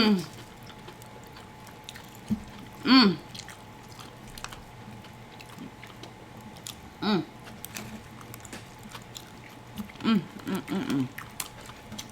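A person chewing and biting food close to the microphone, with many small wet clicks, broken by short voiced hums or murmurs about 3, 7 and 10 to 11 seconds in.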